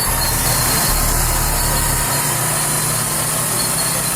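Heavy diesel engines of a loaded logging truck and the bulldozer pushing it up a steep slope, running steadily, with a low hum that shifts about two seconds in.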